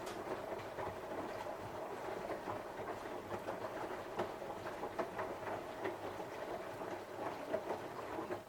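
Samsung washing machine drum turning on a cotton wash, wet laundry tumbling and sloshing with irregular knocks and clatters. The tumbling stops abruptly at the end as the drum pauses.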